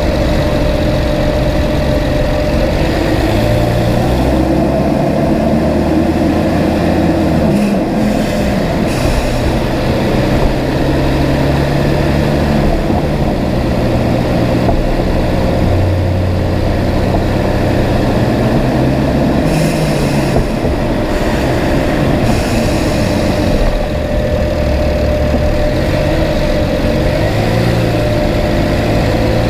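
2011 BMW 335is's N54 twin-turbo inline-six running in steady driving, with road noise, its note shifting up and down every few seconds. A steady hum sits above the engine note.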